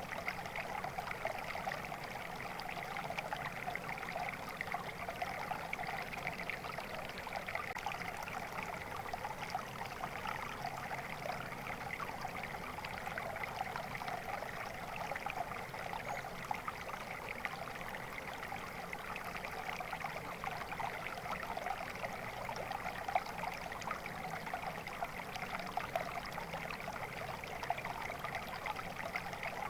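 Flowing water: a steady, unbroken babble and trickle of a stream, the same all the way through.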